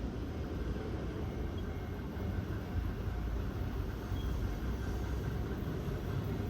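Tobu Tojo Line electric train running at the station: a steady low rumble that grows slightly louder.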